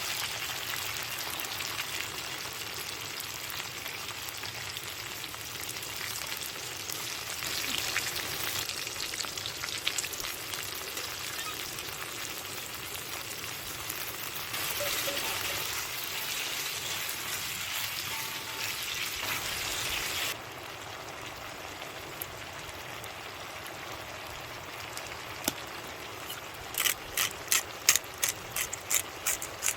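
Food sizzling and crackling as it fries in a pan; the sizzle drops off suddenly about two-thirds through. Near the end comes a quick run of sharp clicks or taps, a few a second.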